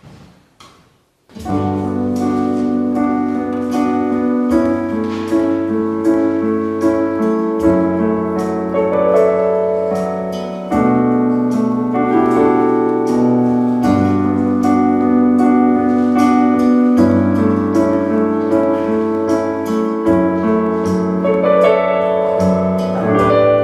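Piano playing a slow, chordal worship-song introduction with a steady bass line. It begins about a second in, after a few faint clicks.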